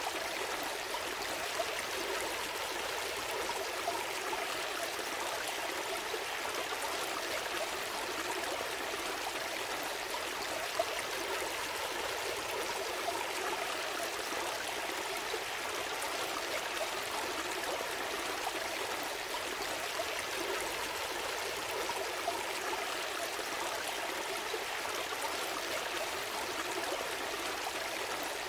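A gentle stream flowing and trickling steadily, with small splashes and drips here and there.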